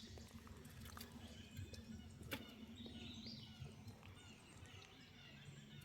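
Near silence: faint outdoor background with a few faint bird chirps about three seconds in and a single faint click about two seconds in.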